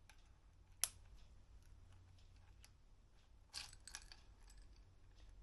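Small hard clicks of tools or metal parts being handled, over near silence: one sharp click about a second in, then a short cluster of clicks a little past halfway.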